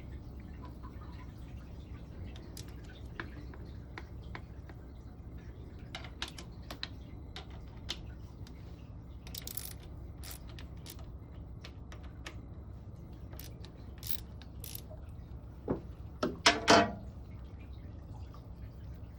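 Seawater draining from a marine sea strainer's drain into the bilge, dripping and trickling as a scatter of small sharp drops over a steady low hum, with a few louder sharp knocks near the end.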